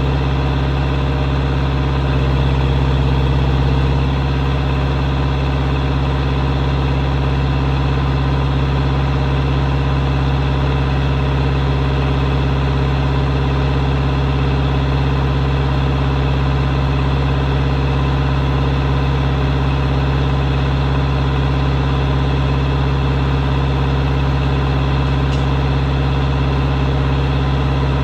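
Swinger 3000 wheel loader's four-cylinder John Deere engine idling steadily, with no change in speed.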